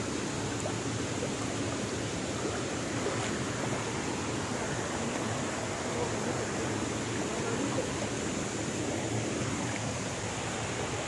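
Steady rushing of a stream's flowing water, an even unbroken wash of noise.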